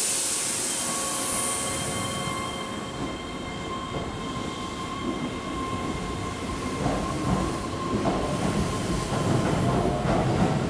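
Keihan electric commuter train at a station platform: a sudden loud hiss of air at the start, then the train's running noise with wheel sounds building over the last few seconds, and a faint rising motor whine near the end.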